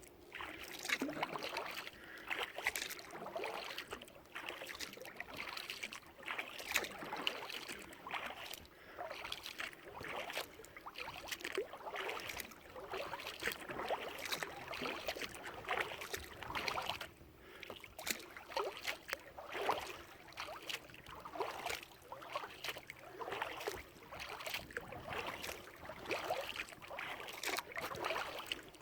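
Kayak paddle blades dipping and pulling through lake water in a steady rhythm, with a splash and trickle roughly once a second.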